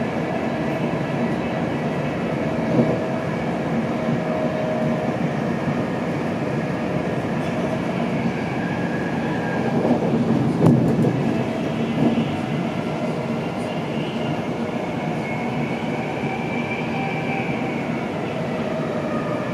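Steady rumble and rush of an InterCity 225 Mark 4 passenger coach running at speed, heard from inside the saloon. A few sharper knocks come through, one about three seconds in and two more between about ten and twelve seconds in.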